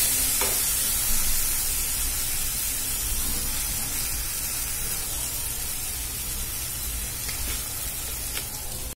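Onion-tomato-yogurt masala paste sizzling in hot oil in a nonstick kadhai as it is fried until the oil separates: a steady hiss that slowly gets quieter, with a few faint scrapes of a wooden spatula.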